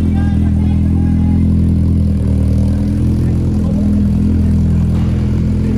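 A car engine running steadily, loud and close, with an even low pitch.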